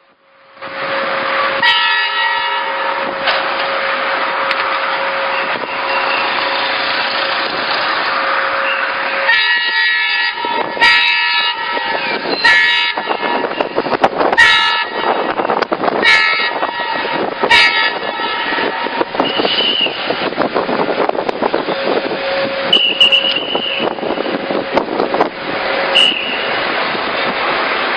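A train running past with a steady rumble, its horn sounding three times, the middle blast the longest. Several sharp knocks come in the middle.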